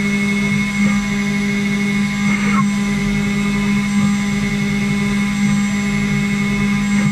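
CNC router spindle running steadily with a constant whine of several steady tones over the noise of the bit cutting, with a brief change in the cutting noise about two and a half seconds in.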